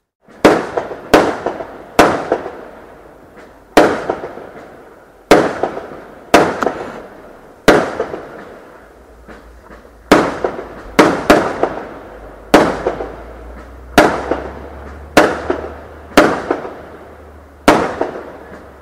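Fireworks exploding in a long irregular series of sharp, loud bangs, roughly one a second, each trailing off in an echo.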